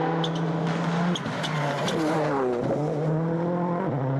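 A World Rally Car engine pulling hard at high revs. The pitch holds steady between gear changes, about a second in and again near the end, and in the middle the revs drop and climb back up.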